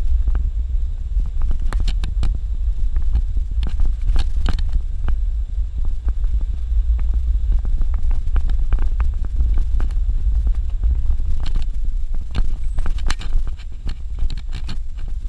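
Suzuki Jimny driving on a dirt road: a steady low rumble, with frequent short clicks and knocks as it rolls over the rough unpaved surface.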